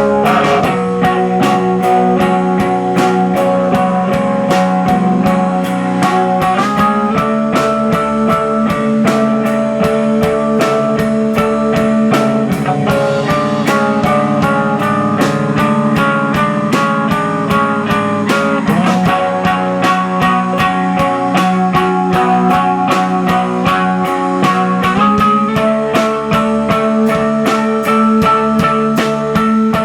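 A live rock band playing a loud guitar-led passage: sustained electric guitar chords over a steady drum beat, with the chords shifting a few times along the way.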